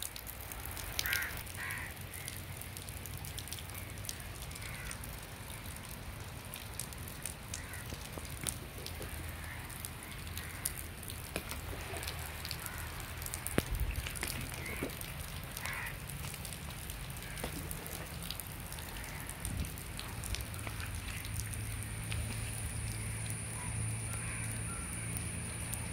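Light rain falling on a river and its muddy bank: a steady hiss dotted with many small drop ticks. A few short calls come in the first couple of seconds, and a thin high steady whine joins for the last few seconds.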